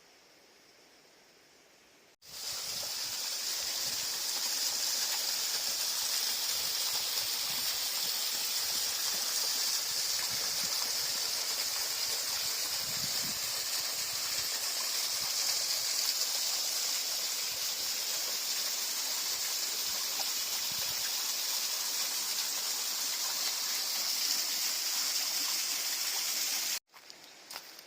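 River water rushing as a steady, even hiss that cuts in abruptly about two seconds in and cuts off abruptly near the end.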